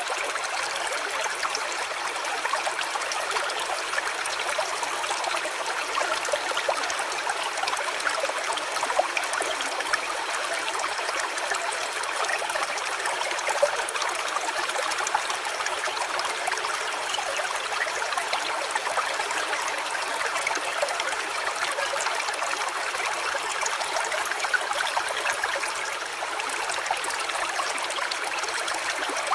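A small stream running and trickling steadily, with a few brief splashy spikes.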